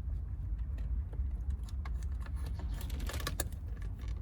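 Small plastic clicks and rattles of a car radio's wiring-harness connector being handled as its locking tab is pried back, with a quick cluster of clicks about three seconds in. A steady low rumble runs underneath.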